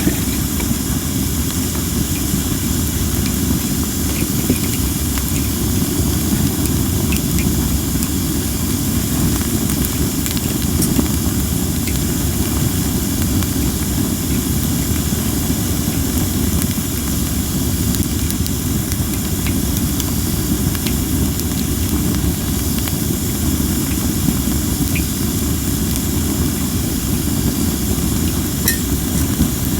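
Cherry-wood campfire burning with a steady hiss from under-dried logs and a heavy low rumble of strong wind, with only a few faint pops.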